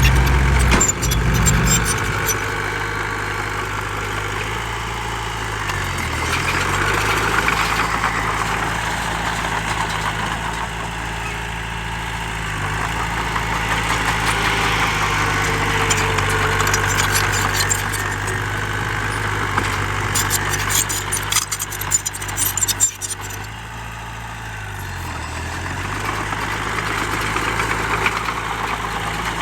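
Heavy diesel earthmoving machinery running steadily, its engine pitch dipping and recovering twice, with bursts of sharp clattering near the start and again about three quarters of the way through.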